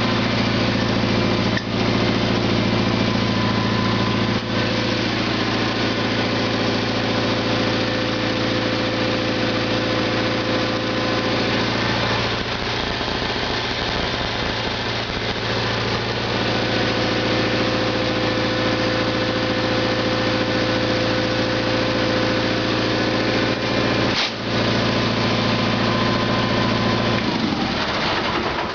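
Sears Suburban 18.6 garden tractor's engine running steadily, cold, on half throttle and choke. Its note wavers for a few seconds midway, with a few brief knocks, and the engine stops near the end.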